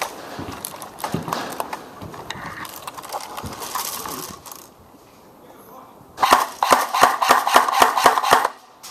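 Scattered clicks and rustling of movement, then about six seconds in a paintball marker fires a rapid string of shots that lasts about two seconds.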